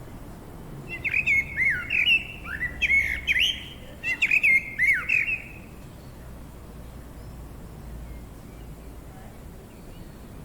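A songbird singing two quick phrases of chirped, whistled notes about a second in, then falling silent partway through. Under it runs a steady low background noise.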